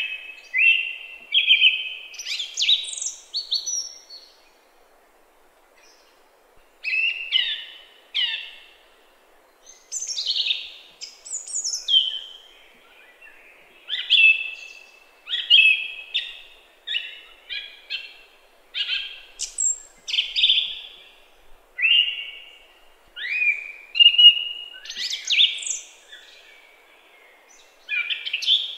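A songbird singing: a long run of short, varied phrases of quick rising and falling high notes, roughly one phrase a second, with a pause of about three seconds about five seconds in.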